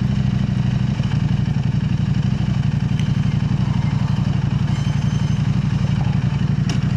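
KTM 890 Adventure R parallel-twin engine running at steady revs through an Arrow Race-Tech slip-on exhaust while the bike is ridden at a constant pace.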